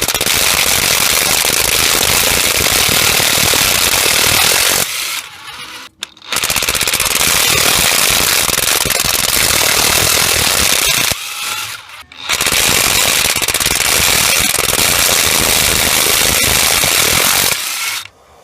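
DeWalt 20V XR DCF894H cordless impact wrench hammering in three long bursts of about five seconds each, with short pauses between them.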